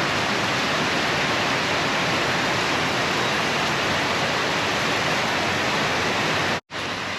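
Heavy tropical rain pouring down in a steady, even hiss. It cuts out for a moment near the end and comes back slightly quieter.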